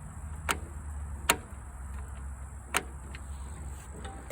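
Three sharp clicks from turning the ignition key of a 2010 MTD Huskee LT4200 riding mower, with no starter cranking: the engine will not crank, which the owner puts down to a loose PTO cable leaving the PTO safety switch not making contact. A low, steady rumble sits underneath.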